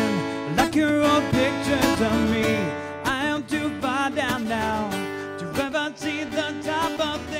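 Live acoustic music: an acoustic guitar strummed steadily, with a wavering melody line over it.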